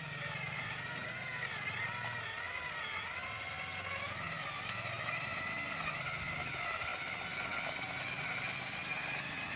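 Electric motor and gearbox of a remote-control model truck whining under load, the pitch rising and falling as the throttle changes, with a low hum beneath and one sharp click about halfway through.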